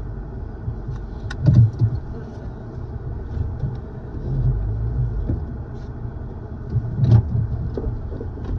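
Low, steady rumble of a car heard from inside the cabin, with two heavier thumps, about a second and a half in and again about seven seconds in.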